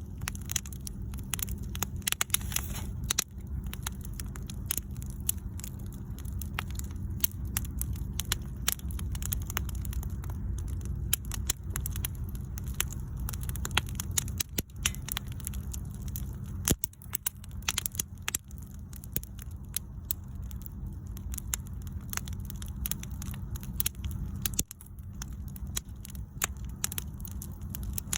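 Wood bonfire burning: irregular crackles and pops from the burning wood over a steady low rumble of the flames.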